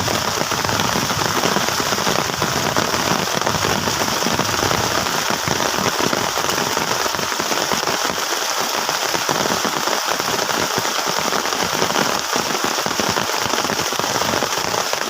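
Heavy rain falling steadily on a plastic tarp shelter, a dense, even hiss of drops.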